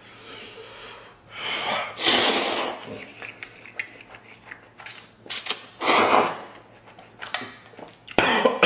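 Noodles being slurped in several loud, hissing draws, the longest about two and six seconds in.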